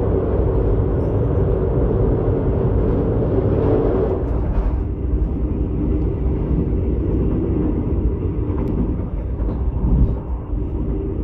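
Passenger train running along the track, heard from inside the carriage: a continuous low rumble of wheels on rails with a steady hum. It is on a steel truss bridge at first and sounds brighter and harsher there, easing after about five seconds.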